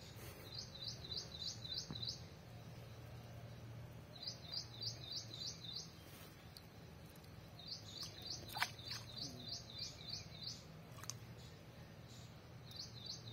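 A songbird singing a short phrase of about six quick, high, hooked notes, repeated four times with pauses of a second or two between. A single sharp tick sounds about two-thirds of the way in.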